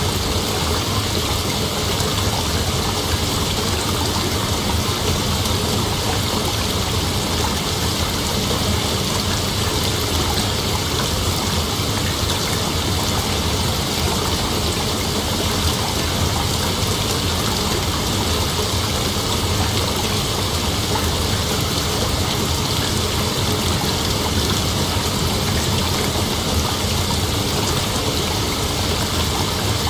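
Steady, unbroken chorus of night insects, a dense even hiss strongest in the upper-middle pitches.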